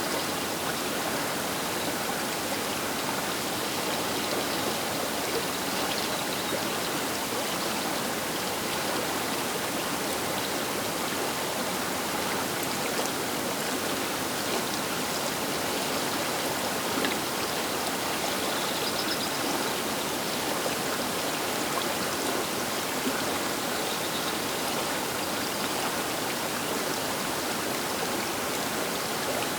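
Baker River flowing fast past the bank: a steady, even rush of running water.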